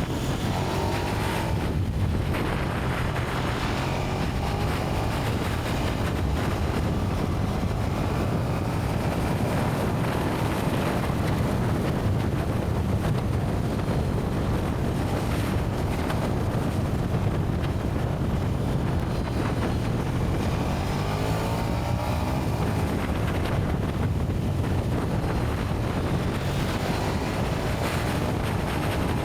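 KTM 1290 Super Duke R's V-twin engine running through its stock exhaust, its pitch sweeping up and down a few times, with wind rushing over the microphone.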